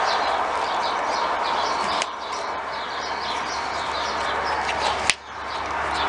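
Small birds chirping on and off over a steady background hiss, with a sharp click about five seconds in.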